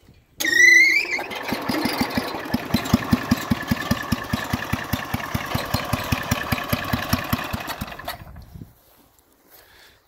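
1967 Jacobsen Chief 800 garden tractor engine being started: the electric starter whines upward briefly and the engine catches almost at once. It then runs with an even beat for about seven seconds and cuts off.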